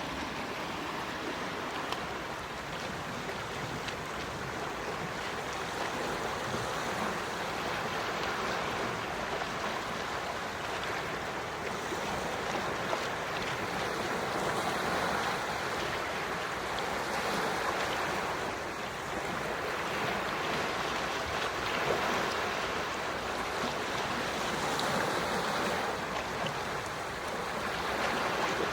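Quiet sea waves washing onto a shore: a steady hiss of water that swells and eases gently every few seconds.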